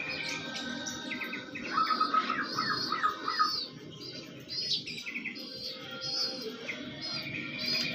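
Birds chirping: short wavering high tweets repeat throughout, with a run of quick squeaky calls about two to three and a half seconds in.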